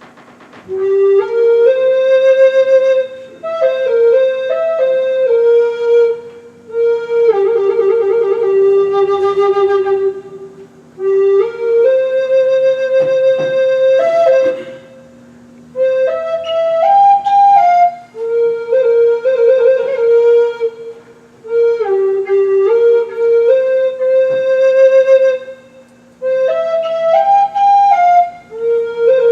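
Flute playing a slow melody in phrases of a few seconds, with short breath gaps between them and vibrato on some held notes, over a steady low drone tone.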